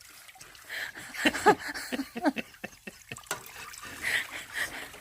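Fermented malt water (yeotgireum water) trickling and splashing as it is handled, with small clicks. A couple of short bits of voice come through in the middle.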